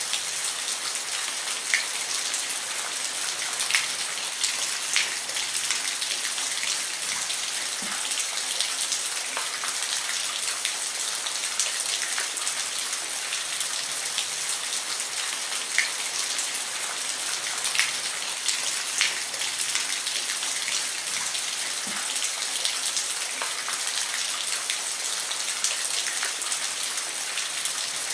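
Steady rain falling on a roof, a constant hiss with scattered louder ticks of single drops hitting.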